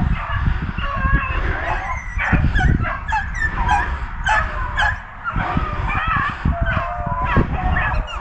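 Pack of beagles baying in chorus on a rabbit's trail: many overlapping howling calls throughout, with a low rumble underneath.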